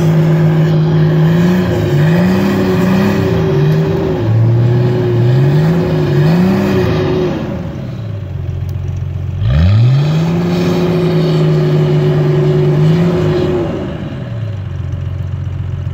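Off-road vehicle's engine revved and held at high revs, with several quick rises and falls in pitch. It drops back to idle about seven and a half seconds in, is revved up again a couple of seconds later and held, then settles back to idle near the end.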